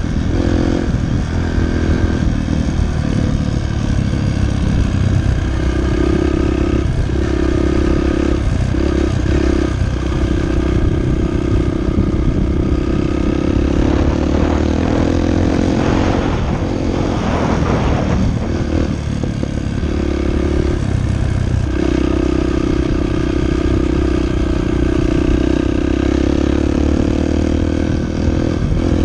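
Dirt bike engine running loud and continuous as the bike is ridden, its pitch holding steady for stretches and rising and falling elsewhere, with a rougher, noisier stretch about halfway through.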